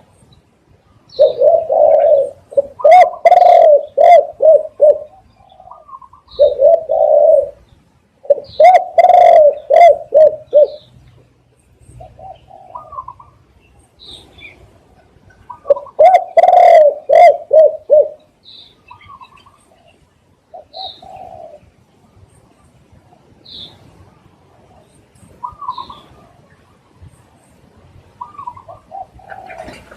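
Spotted dove cooing in four loud bouts of quickly repeated coos, with shorter, quieter coos between them. Faint high chirps from small birds run through the gaps.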